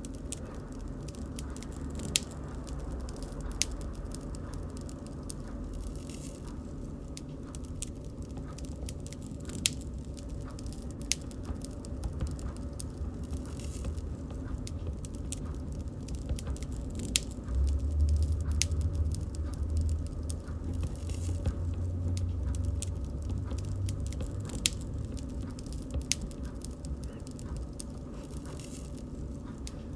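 Bonfire crackling, with sharp irregular pops and snaps of burning wood over a steady low rumble of flames. The rumble swells for several seconds a little past the middle.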